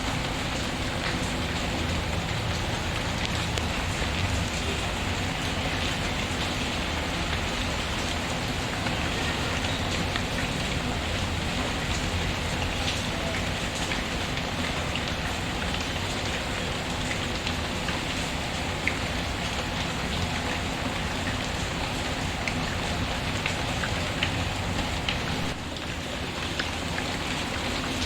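Steady rain falling, with scattered small crackles and ticks from a wood fireplace mixed in.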